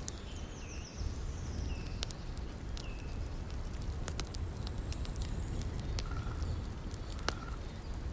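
Campfire crackling, sharp pops scattered irregularly, over the steady low rush of a river. A few short high chirps of a bird come through in the first three seconds.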